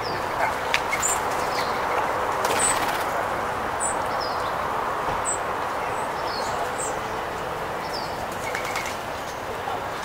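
A scrub-jay's wingbeats as it flies off the picnic table, with a flurry of them about two and a half seconds in. Small birds chirp repeatedly in short high notes over a steady background hiss.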